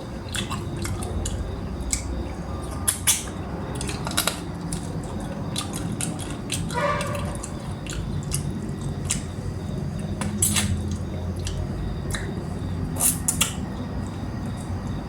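Close-up eating sounds of chicken curry: wet chewing and smacking with irregular sharp clicks, a few louder ones, over a steady low hum.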